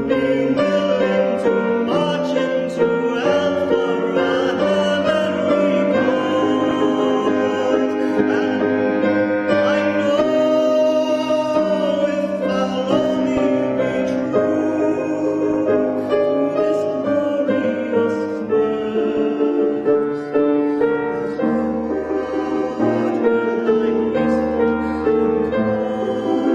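A song performed live: a singer with piano accompaniment, the sung notes long and held.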